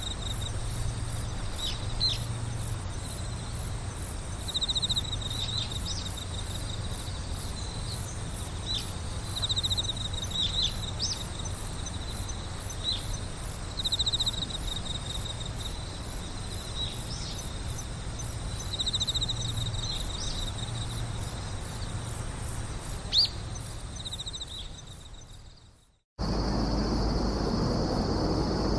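Insects calling in a chorus: short trilled bursts recurring every couple of seconds, over a fast, even, very high-pitched pulsing. The chorus fades out about 25 s in. After an abrupt cut it gives way to a steady hiss with a thin high tone and a low rumble.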